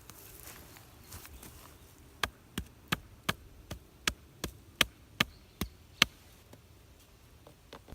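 A series of about a dozen sharp, evenly spaced knocks, nearly three a second, starting a couple of seconds in and stopping about two seconds before the end.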